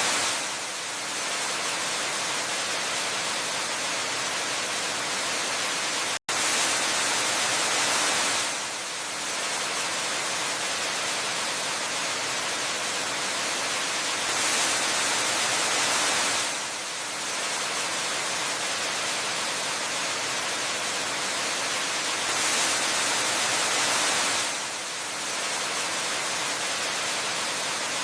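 Waterfall ambience: a steady, even rush of falling water that swells slightly every eight seconds or so. It drops out for a split second about six seconds in.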